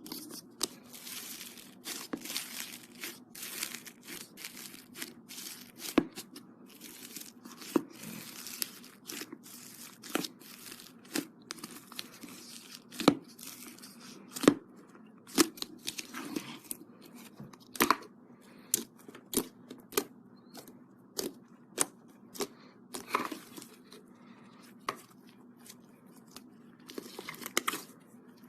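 Crunchy slime made with styrofoam foam beads being squeezed and kneaded by hand: irregular crackling and crinkling, broken by frequent sharp pops and snaps as air pockets burst.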